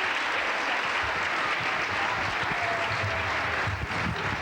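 Audience applauding steadily at the end of a school musical number.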